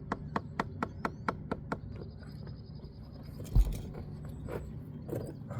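Brick being tapped down into its mortar bed with a trowel to bring it level: a quick run of about ten sharp taps, about four a second, stopping under two seconds in. A single dull thump follows a little past halfway.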